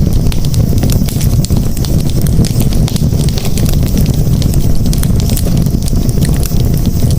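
Campfire burning, with frequent sharp crackles and pops from the wood over a steady low rush of flames.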